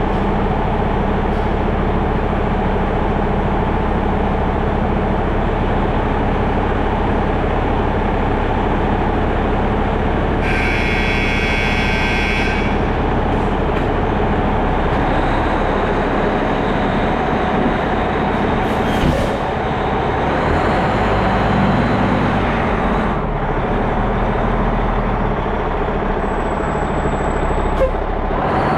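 Fire engine's diesel engine running steadily under way, with a high-pitched blast of about two seconds roughly ten seconds in.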